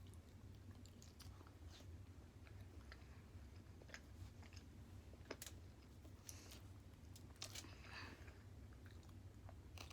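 Faint chewing of a child eating raw tuna sashimi, with scattered small clicks over a low steady hum.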